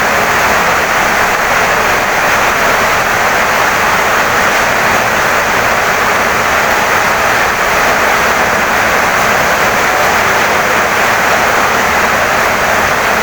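Heavy rain pouring steadily onto a wooden house: a dense, even hiss that does not let up.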